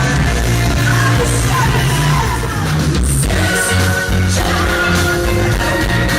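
Live synthpop band playing: a singing voice over synth, bass and drums, with the voice dropping out about halfway through while held synth chords carry on.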